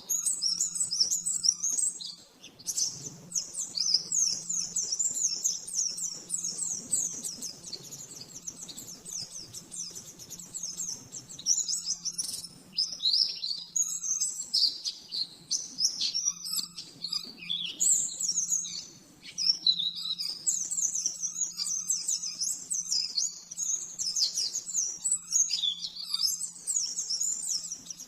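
White-eye (pleci) singing a long, rapid-fire song of fast, high sweeping chirps that run almost without a break, pausing only briefly a few times.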